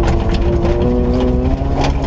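Ford KA 1400 rally car's engine working hard on a stage, its pitch changing in steps about every half second to second as the driver works the throttle and gears. Short sharp knocks and clatters are mixed in.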